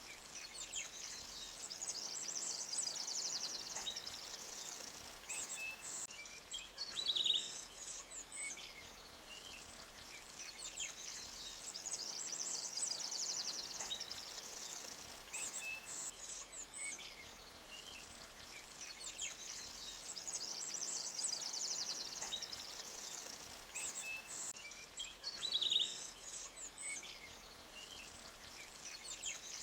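Forest ambience: small birds chirping and trilling over the low steady rush of a stream. The same run of calls comes round about every nine seconds, as in a looped recording.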